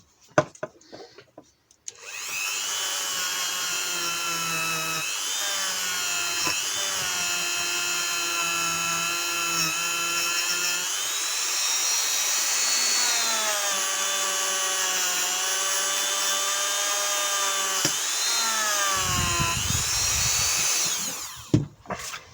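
Dremel rotary tool spinning a brass wire brush against a corroded aluminium thermostat housing to clean off the corrosion: a steady high whine that starts about two seconds in, dips and recovers in pitch a few times, and stops shortly before the end. A few light clicks come before it starts.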